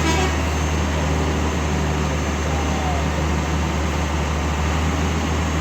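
A heavy truck's diesel engine running with a steady deep drone, along with road noise.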